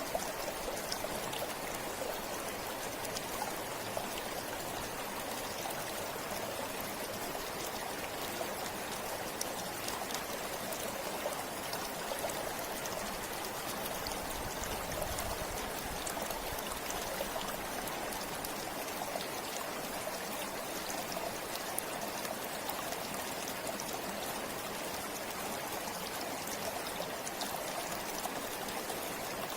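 A river or stream flowing steadily over rocks: a continuous rush of water with faint droplet splashes and trickles.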